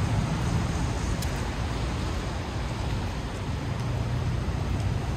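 Steady rain hiss over the low rumble of city street traffic.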